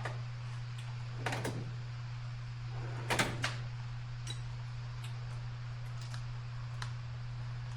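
Scattered knocks and clicks from hand work on the parts, with a louder cluster about three seconds in and a few faint ticks after, over a steady low hum.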